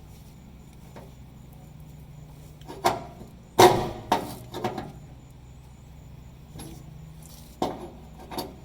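Several sharp knocks and clanks from fuel pump parts being handled and fitted, spaced irregularly, with the loudest about three and a half seconds in. A faint steady hum runs underneath.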